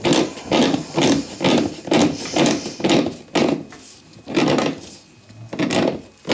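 Nuts being tightened down on toilet closet bolts with a hand wrench, in quick rough strokes about two a second, with a short pause around four seconds in.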